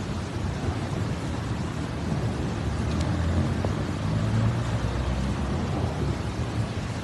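Steady rushing noise of a heavy rainstorm and running floodwater, with a low rumble underneath that swells a little in the middle.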